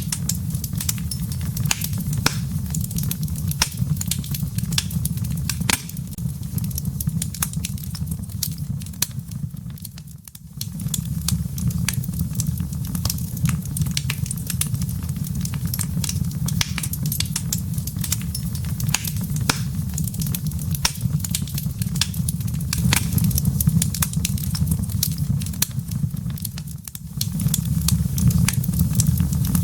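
Fireplace fire with crackling embers: a steady low rumble of burning, with many sharp pops and snaps scattered irregularly throughout. The low rumble drops away briefly about a third of the way in and again near the end.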